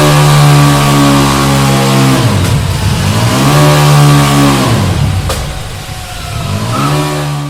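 KTM 1290 Super Duke R's V-twin engine through its stock exhaust, revved and held at high revs. It falls back to a lower pitch twice and climbs again each time.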